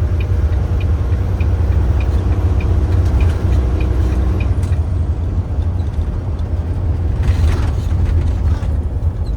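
Truck's engine and road noise heard from inside the cab, a steady low rumble. A turn-signal flasher ticks about twice a second and stops about four and a half seconds in; a short hiss comes about seven seconds in.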